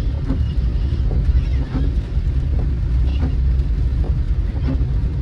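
Car driving in the rain, heard from inside the cabin: a steady low rumble of road and engine noise under a light hiss, with a faint sound repeating about every second and a half.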